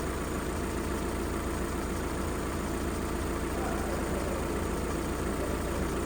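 VW Golf 4 1.6 AZD petrol engine idling steadily and evenly, with no blow-by from the dipstick tube: a sign of a healthy engine.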